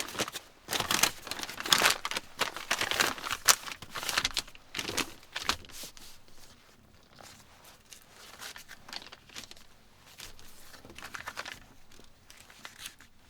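Packaging being crinkled and torn open, busy for the first half and then only occasional rustles, typical of unwrapping a steak.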